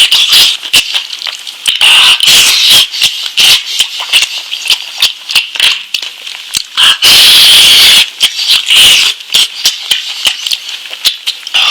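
Close-miked wet chewing and lip-smacking of someone eating lamb meat: a dense, irregular run of sticky clicks, with a longer, louder noisy stretch about seven seconds in.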